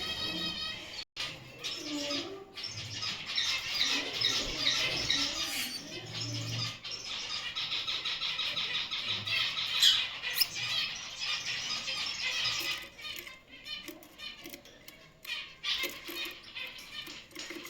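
Gouldian finches chirping in quick, overlapping high calls that thin out to scattered chirps about thirteen seconds in.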